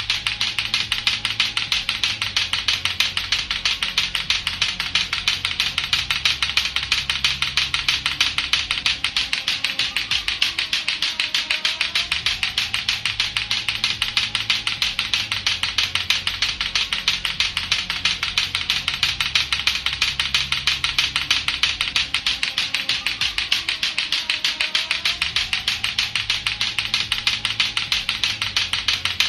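Lato-lato clacker balls, two hard plastic balls on a string, knocking together in a rapid, even clacking that does not let up, over a looping background music track.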